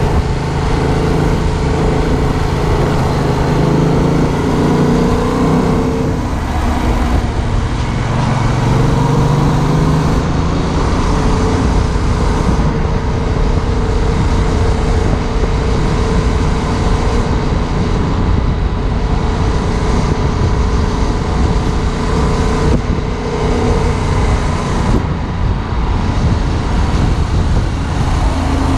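Two-cylinder 700cc engine of a 2015 Yamaha MT-07 motorcycle running under way, its note rising and falling several times as the throttle opens and closes, over steady wind and road noise.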